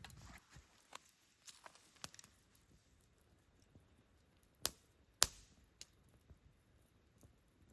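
Wood campfire crackling quietly with scattered small pops, and two sharp, loud snaps about half a second apart a little past the middle.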